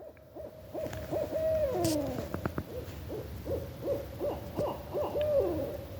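Barred owl hooting: a quick run of hoots held at one pitch, with a couple of notes sliding downward, the last one about five seconds in.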